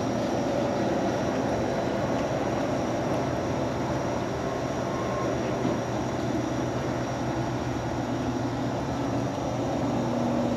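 Small water pump running with a steady hum, pumping water through a race car's radiator to flush the cooling system.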